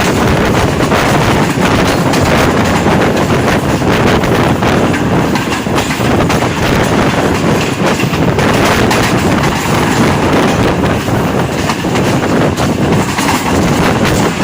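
Rehman Baba Express passenger train running along the line, heard from on board: a steady loud rumble of wheels and carriages with rattling and clicking over the track.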